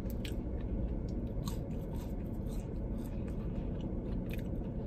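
A person chewing French fries close to the microphone, with scattered small wet mouth clicks, over a steady low hum.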